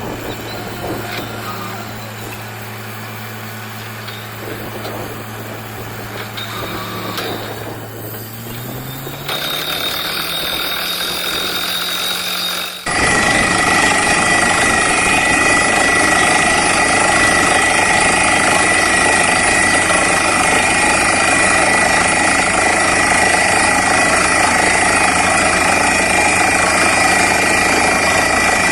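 Borewell drilling rig's engine running steadily, then speeding up about a third of the way in. Just under halfway through it jumps suddenly to a much louder, steady hammering roar of drilling with a high ringing tone, which holds to the end.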